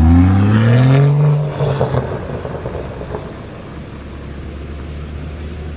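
A car engine revving as the car pulls away, its pitch rising over the first second or two, then settling into a quieter, steady low hum.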